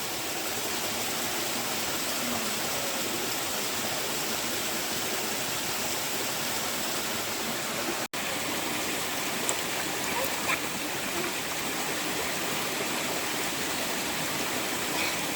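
Steady rush of running water from a forest stream, broken by a sudden momentary gap about eight seconds in.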